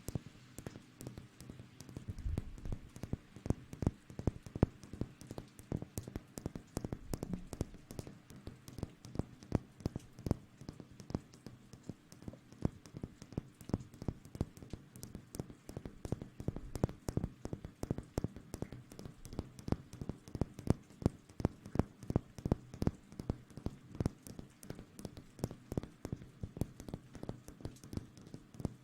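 Close-miked ASMR rustling: dense, irregular crisp crackles and taps, several a second, over a faint steady hum.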